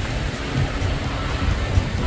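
Wind buffeting the microphone: a low, gusty rumble.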